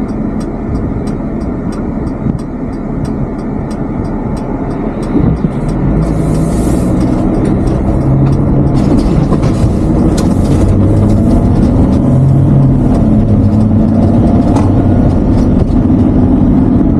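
Camper van driving, heard from inside the cab: steady engine and road noise, with a turn signal ticking about three times a second for the first six seconds. After the ticking stops, the engine works harder and the noise grows louder as the van picks up speed.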